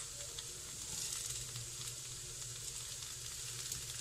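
Masala-coated taro root (arbi) pieces frying in oil in a nonstick pan, giving a steady, soft sizzle. A low steady hum runs underneath.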